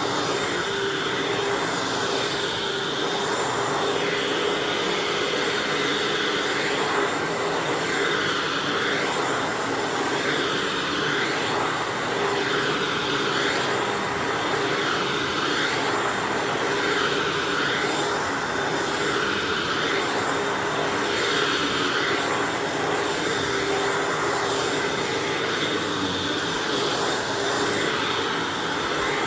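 Hoover Anniversary upright vacuum running steadily with a constant motor whine, its sound swelling and fading about every couple of seconds as it is pushed and pulled across the floor.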